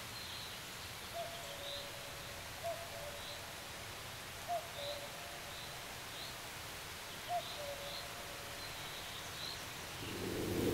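Birds calling over a steady outdoor hiss: a short low call repeated every couple of seconds, with faint high chirps between. A low hum swells in near the end.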